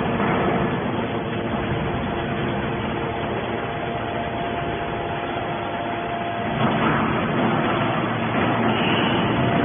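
Hydraulic scrap metal baler running: a steady machine hum with a faint whine over it, shifting slightly about two-thirds of the way through.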